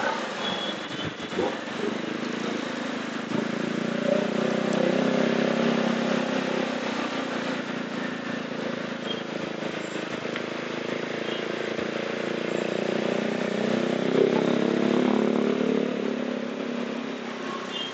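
Motorcycle running on the road, with wind and road noise. Its engine note grows stronger from about four seconds in and eases off near the end.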